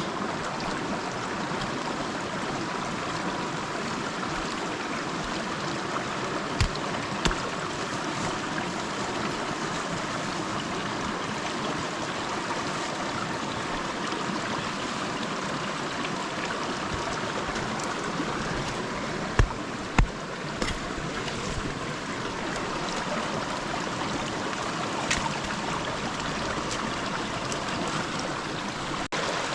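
River water flowing steadily, with a few dull knocks, the two loudest close together about two-thirds of the way through.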